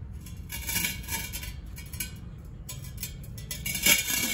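Light clinking and rattling of a small hard bowl knocked about by a pet bird, in short scattered bursts, with a few sharp knocks near the end.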